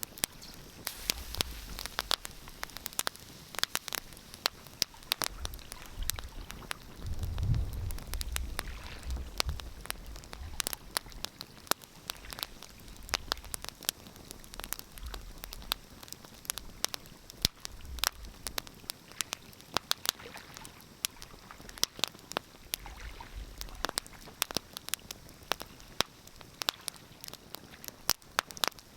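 Wood fire crackling in a fireplace, with dense, irregular sharp pops and snaps. There are a few stretches of low rumble mixed in.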